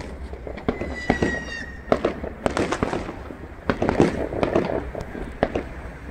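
Fireworks going off all around: many irregular sharp bangs and crackles, with a brief whistling tone about a second in.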